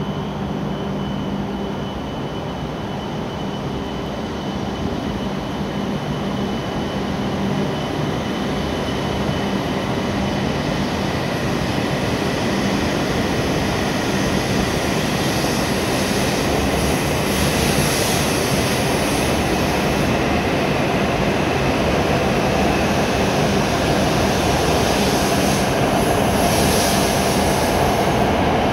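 W7 series Shinkansen train pulling out of the platform and gathering speed, its running noise growing steadily louder as the cars slide past.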